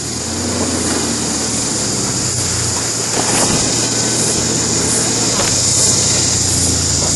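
Nissan Patrol 4WD's engine running steadily at low revs close by as it reverses slowly off a rock, with a couple of faint knocks.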